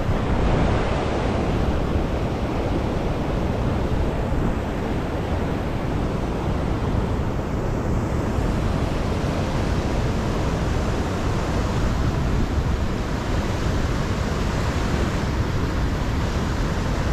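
Steady rushing of flowing river water, with wind blowing on the microphone.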